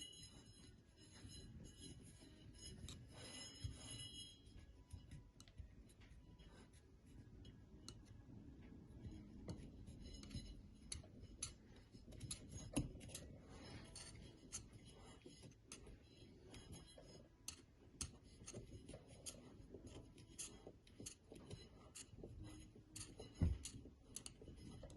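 Faint small clicks, scrapes and rubbing as a screwdriver edges a rubber seal down into the groove of a GTR R35 dual-clutch 'B' piston, with one sharper knock near the end.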